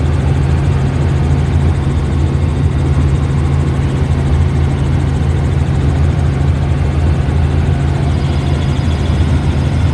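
Helicopter in flight: the engine and rotor make a steady, loud, low drone.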